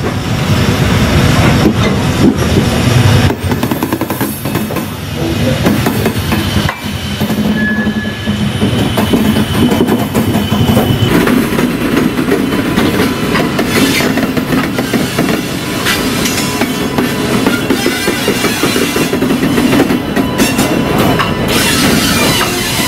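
Passenger train passing at close range: a steady, loud rumble with the clatter of wheels over the rails.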